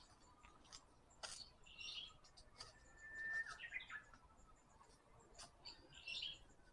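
Forest songbirds calling faintly: a few short chirps, and about halfway through one held whistle that breaks into quick descending notes. Scattered sharp clicks of footsteps on the forest path sound between the calls.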